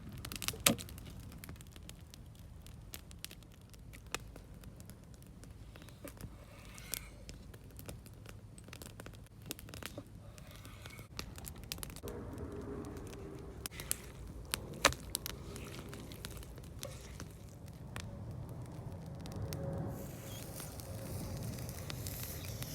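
Wood campfire crackling, with scattered sharp pops and a few louder knocks. A faint hiss rises over it in the last few seconds.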